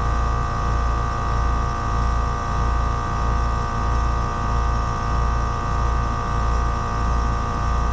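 Trane two-stage heat pump running in second stage: a steady compressor and fan hum with a low throb that swells a little more than once a second. Head pressure is climbing while it runs, a regulation problem the technician puts down to the electronic expansion valve (EEV) control.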